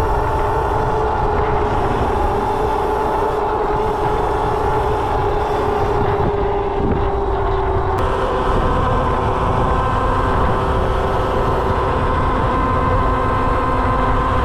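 Electric mini bike's motor whining steadily while riding, with wind rumbling over the microphone. The whine shifts slightly in pitch about eight seconds in.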